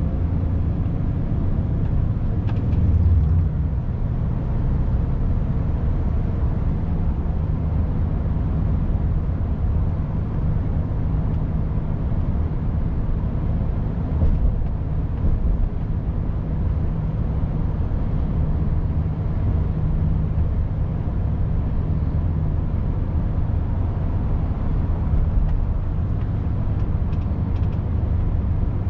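Volvo FH 500 truck's six-cylinder diesel engine running steadily at cruise, heard from inside the cab with road noise.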